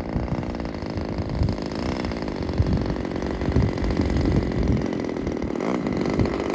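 Small 20cc two-stroke gasoline engine of a radio-controlled P-51 model running, with a buzzing, chainsaw-like tone. Gusts of wind buffet the microphone with irregular low rumbles.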